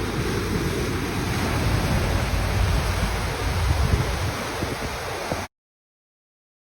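Steady rushing noise with a heavy low rumble, of the wind-on-the-microphone kind, which cuts off abruptly to dead silence about five and a half seconds in.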